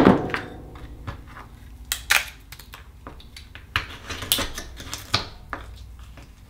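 Akoya oysters being handled and pried open: a loud ringing clink at the start, then a string of irregular sharp clicks and taps of a metal tool on shell.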